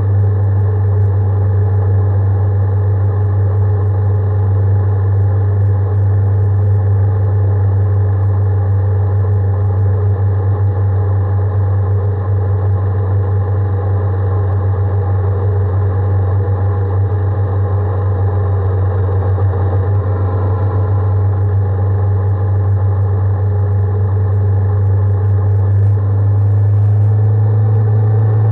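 Honda 400X motorcycle's parallel-twin engine running at constant revs, a steady low drone that neither rises nor falls.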